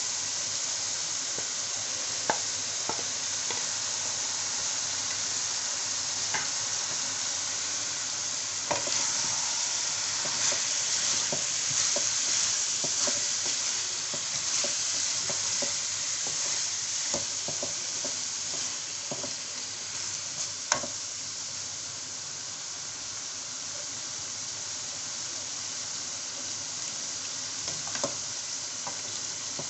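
Chicken, potato, onion and tomato frying in hot oil in an aluminium karahi, a steady sizzle that swells for a few seconds about a third of the way in. A wooden spatula stirs the pieces, with occasional sharp knocks against the pan, the loudest about two-thirds of the way through.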